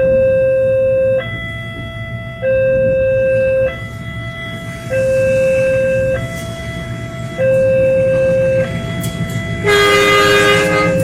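Railway level-crossing warning alarm sounding an alternating two-tone signal, low then high, each tone about a second long, which warns that a train is crossing. Under it is the steady low rumble of the train. About ten seconds in, a train horn sounds loudly and briefly over the alarm.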